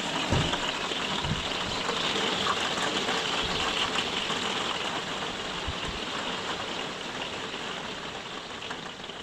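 Heavy rain pouring down in a steady hiss as a rainstorm breaks, easing slightly over the seconds, with a few brief low thuds.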